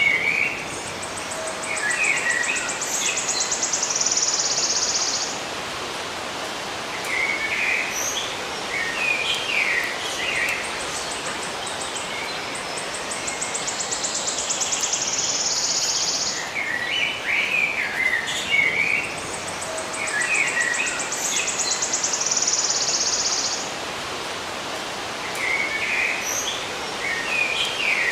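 Songbirds chirping in short clustered calls over a steady hiss, with a high, rapid buzzing trill that lasts a few seconds. The sequence repeats about every nine seconds, as a looped recording.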